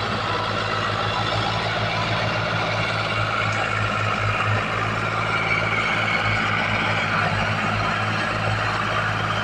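Tractor diesel engine running steadily, with an even low throb.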